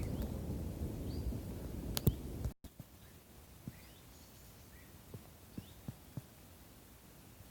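Wind buffeting the microphone with a low rumble, then a sudden cut about two and a half seconds in to quiet outdoor ambience with a few faint bird chirps and several soft ticks.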